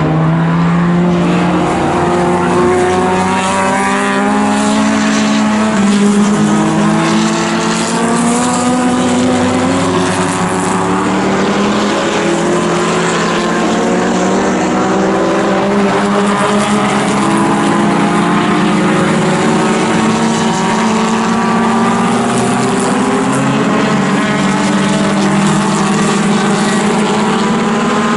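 Engines of several pre-1961 sports racing cars running hard together on track, their overlapping notes gliding up and down with throttle and gear changes.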